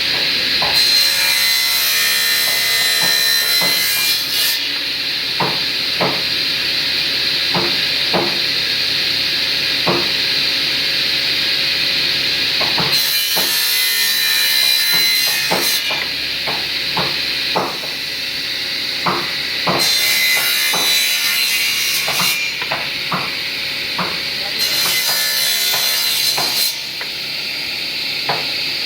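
Woodworking power saw running steadily and cutting wood four times, each cut lasting two to three seconds, with many sharp knocks of wooden pieces in between.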